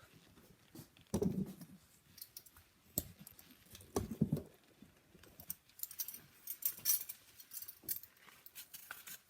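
Kitchen handling sounds: a few knocks as things are set down on the counter, then a run of short, quick scraping strokes from vegetables being peeled.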